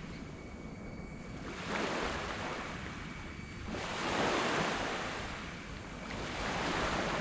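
Small tropical waves breaking and washing up a sand beach, three in a row, each swelling and fading off.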